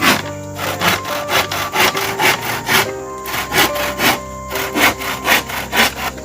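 Hand saw cutting through wood in steady back-and-forth strokes, about two a second, over background music.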